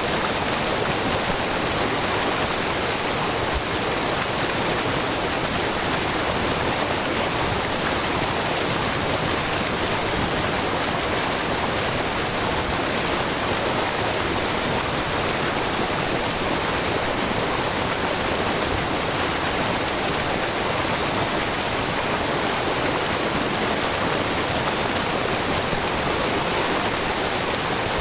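Low, wide waterfall of spring water spilling in many thin streams over a rock face, making a steady, even rushing splash.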